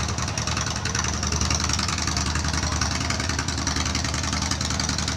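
Motorcycle engine idling steadily, with a constant hiss over it.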